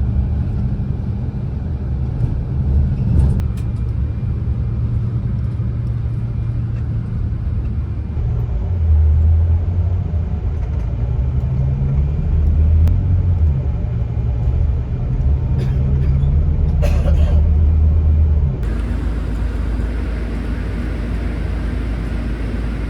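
A vehicle in motion heard from inside: a steady low rumble with low engine-like tones that shift in pitch. About three-quarters of the way through the sound changes abruptly to a steadier, hissier rumble.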